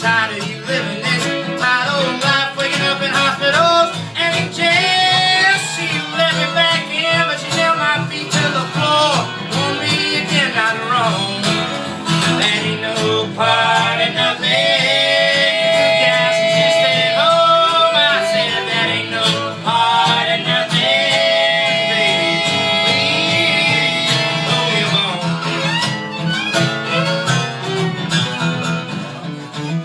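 Live acoustic folk string band playing in a country/bluegrass style: strummed guitar and a steady bass under a melody of long held, sliding notes, with fiddle among the instruments.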